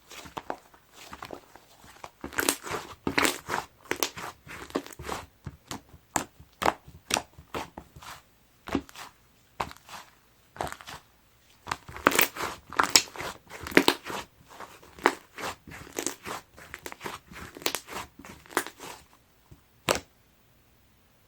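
Slime being pressed and squeezed by hand, giving an irregular run of crackling pops and crunchy clicks that comes in denser clusters and stops shortly before the end.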